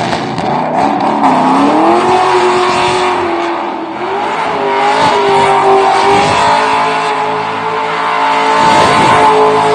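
Roush Mustang's engine revving loudly, its pitch climbing and falling in several slow waves.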